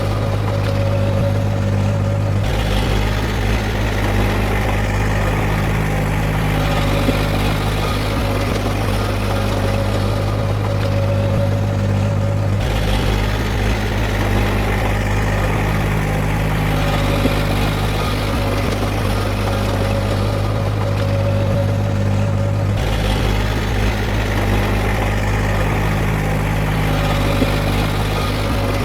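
Heavy diesel engine of earthmoving machinery running steadily with a deep low hum, its tone changing slightly every ten seconds or so.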